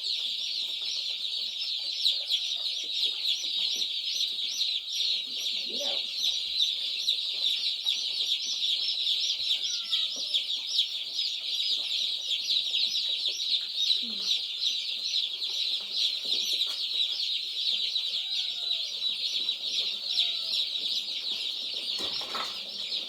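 A brooder full of day-old meat-bird chicks and turkey poults peeping, a dense and unbroken chorus of many high chirps.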